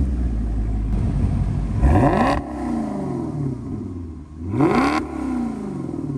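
Car engine revved twice, about three seconds apart. Each time the pitch shoots up sharply and then falls back to idle, and the engine runs steadily in between.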